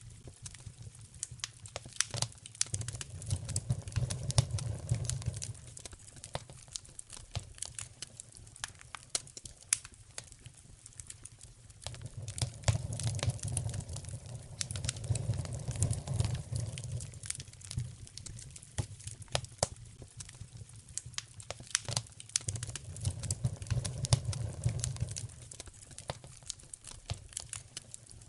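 Wood fire crackling in a fireplace: a constant run of sharp pops and snaps. Under it, a low rumble swells up three times for a few seconds each.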